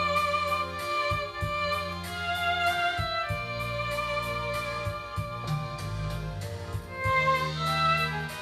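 Roland Aerophone AE-20 digital wind instrument on its violin tone, playing a sustained melody note by note over a backing track with steady bass and chords.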